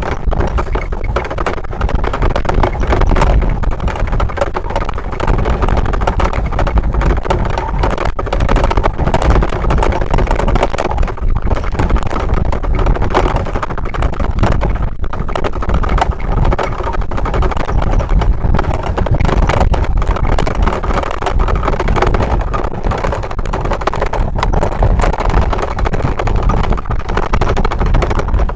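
Loud, steady running noise of a moving train: a low rumble with frequent short clatters, and wind noise on the microphone.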